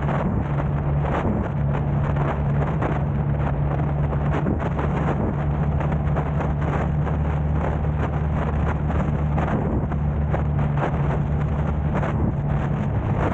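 Car driving in city traffic: a steady low engine and road drone, with gusts of wind buffeting the camera's microphone.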